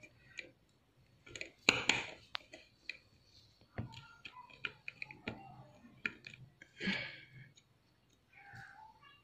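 Faint, irregular small clicks and taps of hand tools working on the screws inside an opened hard disk drive.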